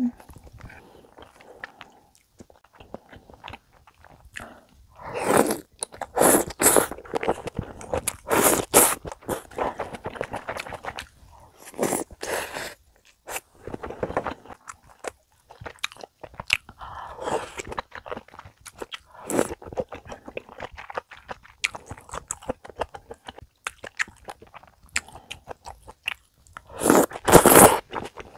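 Close-miked chewing and biting of budae-jjigae, ham slices and ramen noodles with wet mouth sounds, coming in irregular bursts. The loudest burst comes near the end.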